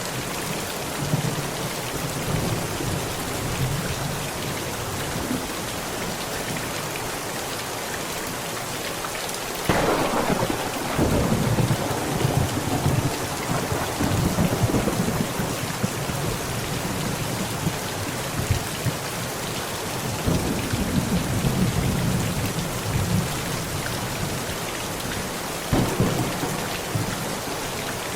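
Steady heavy rain pounding on a tent, with thunder: a sudden crack about ten seconds in that rumbles on for several seconds, and another clap near the end.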